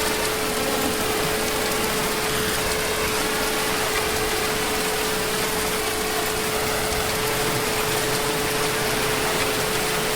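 Heavy rain falling steadily, an even unbroken hiss, with a steady humming tone running underneath it.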